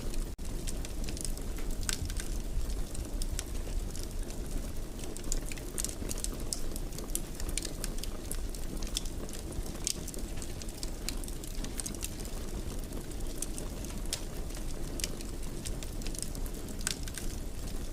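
Wood fire in a fireplace crackling, with frequent sharp irregular pops and snaps over a steady low rush of burning flame. A split-second dropout in the sound comes just after the start.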